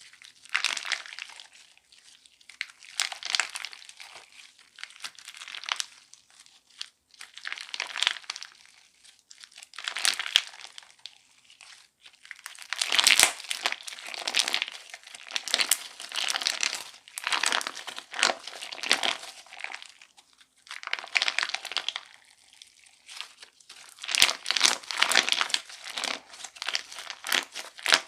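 Crunchy candy slime being squeezed and kneaded, giving repeated bursts of crackling crunches every second or two with short pauses between.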